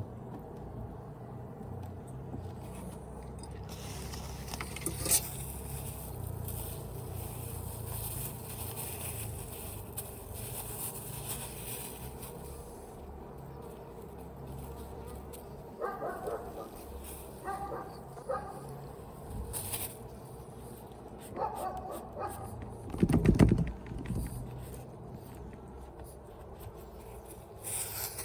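Honeybees buzzing steadily around an open hive, with clicks and knocks from the hive being worked. In the second half there is a cluster of short sharp sounds, and later one loud low thump.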